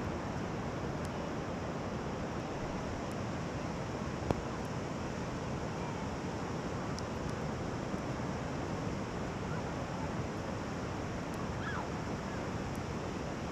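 Steady wash of surf breaking on a sandy beach, with wind on the microphone. One sharp click about four seconds in.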